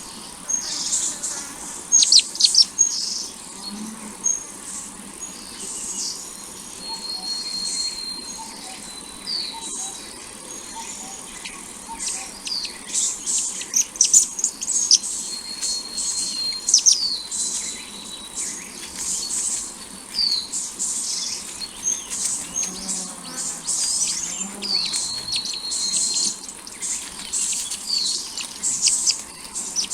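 Small birds chirping: many short, high chirps and quick sweeping calls, with a few held trills about a second long.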